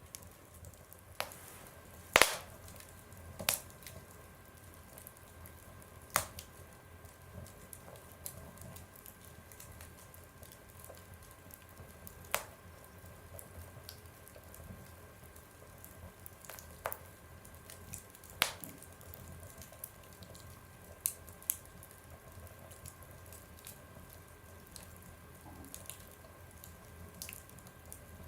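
Fire crackling in a stove: sparse sharp pops and snaps every few seconds, the loudest about two seconds in, over a faint steady hum.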